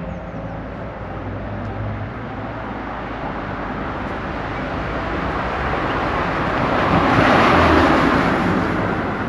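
A vehicle driving past, its noise swelling to a peak about seven to eight seconds in and then fading away.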